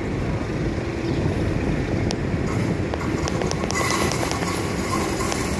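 MetroValencia electric train running along the track, a steady rumble with wheel clicks over the rail joints and hiss building from about halfway as it draws closer.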